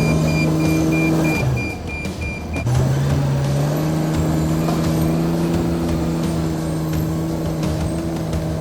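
Caterpillar D7 bulldozer's diesel engine working, with its backup alarm beeping about three times a second for the first couple of seconds as the dozer reverses. The engine note dips briefly, then picks up again and runs steadily.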